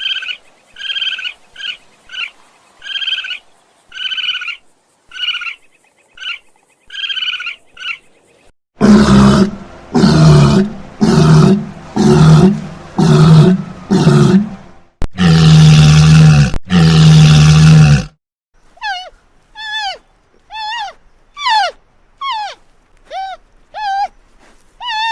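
A run of animal calls in three parts. First, a string of short, evenly repeated honking calls; then, about nine seconds in, a series of very loud deep calls, pulsing about once a second and ending in two long held ones; and from about nineteen seconds, quick high whistled calls that fall in pitch, about two a second.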